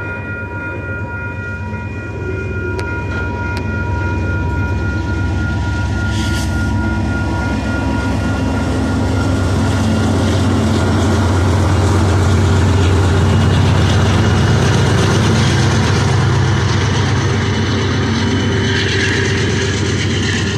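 Freight train of enclosed autorack cars rolling past: a steady rumble of wheels on the rails that grows louder toward the middle. A thin high ringing tone sounds over it for the first several seconds and then fades out.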